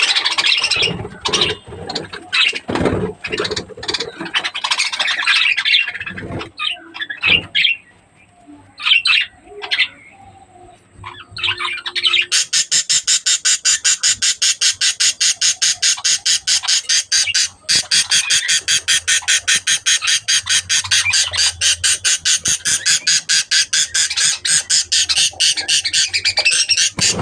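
Budgerigars chirping and squawking in uneven bursts, with a quieter spell around the middle. From about halfway through, a fast, even run of high chirps sets in at about five a second.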